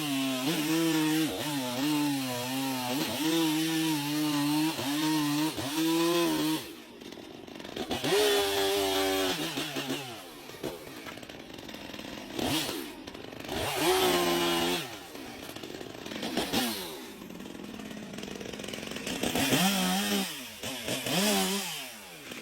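Chainsaw cutting wood, its engine note dipping and recovering over and over for about six seconds. It then drops to a lower running speed, with three short revs further on.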